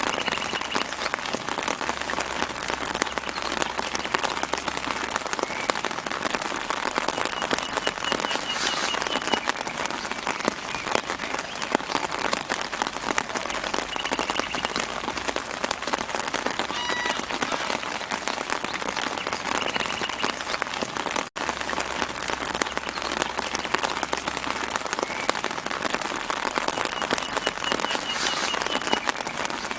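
Gentle rain falling steadily on leaves, a dense patter of drops, with a bird's short trilled call in the background every several seconds. The sound cuts out for an instant about two-thirds of the way through.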